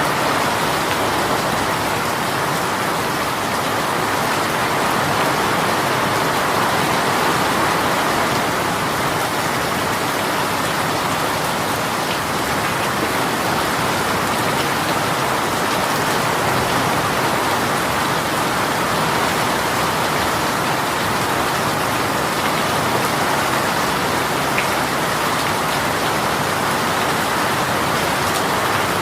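Heavy rain shower falling steadily, an even, unbroken hiss of raindrops hitting surfaces.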